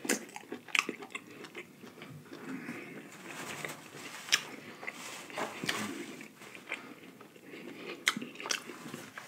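A person chewing a mouthful of lobster meat, with scattered sharp mouth clicks.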